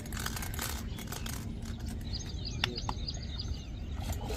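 Small birds chirping in short repeated calls over a steady low outdoor rumble, with a run of faint clicks in the first couple of seconds.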